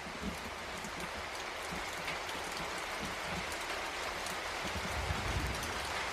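Steady rain: a dense, even hiss sprinkled with the ticks of single drops.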